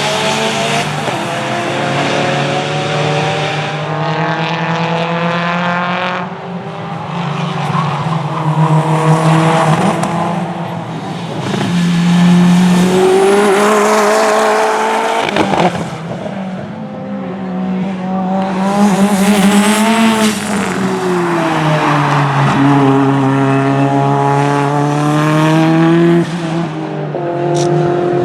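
Time attack race cars on a circuit, their engines revving hard up through the gears and dropping under braking, one pass-by after another.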